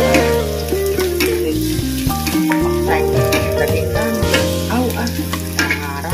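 A stir-fry sizzling in a wok while a metal ladle stirs it, clicking and scraping against the pan. Background music with a held bass and a stepping melody plays over it.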